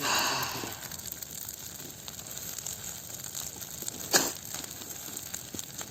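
Large bonfire crackling and hissing. A rush of rustling noise fades in the first second, and a single sharp crack comes about four seconds in.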